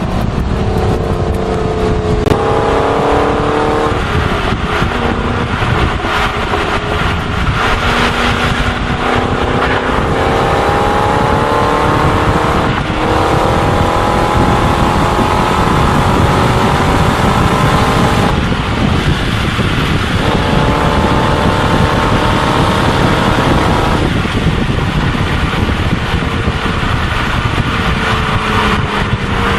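Ford Mustang engine running hard while driving, its pitch climbing and dropping back about five times as the gears change, over steady road noise.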